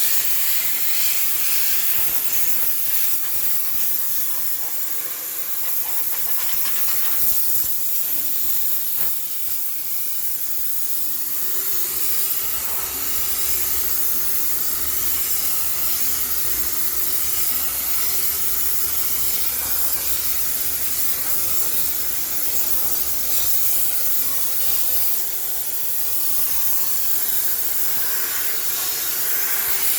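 High-pressure steam cleaner hissing steadily as it sprays steam to sterilize a washing machine, with a low hum joining partway through.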